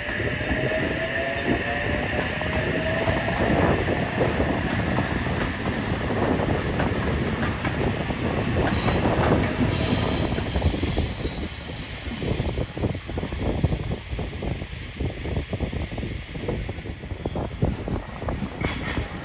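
An 8-car NSW TrainLink Oscar (H-set) double-deck electric train pulling out. A whine rises slowly in pitch over the first few seconds as it gains speed, and the wheels clack steadily over rail joints, with a brief high squeal about nine seconds in.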